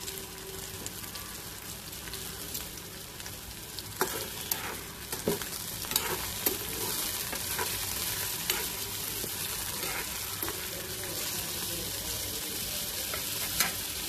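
Sliced ridge gourd and crushed garlic sizzling in hot oil in a kadhai, with a spatula scraping and knocking against the pan from about four seconds in.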